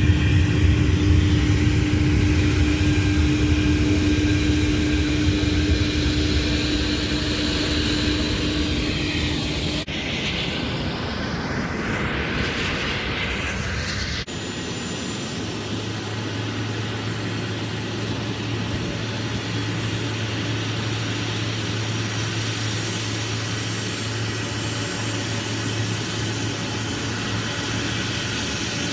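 Airliner engines, loud at first and fading over about ten seconds as the aircraft moves away. The sound breaks off abruptly twice, about ten and fourteen seconds in, then gives way to a steadier, quieter engine rumble with a low hum.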